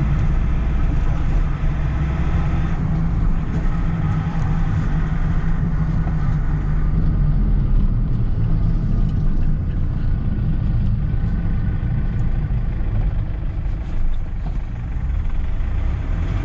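Engine and road noise of a moving vehicle heard from inside the cabin while driving: a steady low rumble, with a faint whine in the first few seconds.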